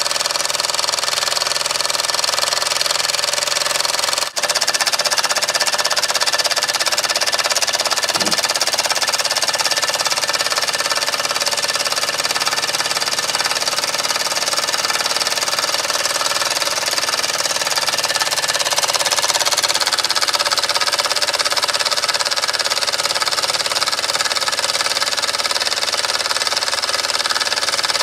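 Restored Mamod model steam engine running steadily under steam, with a brief break about four seconds in.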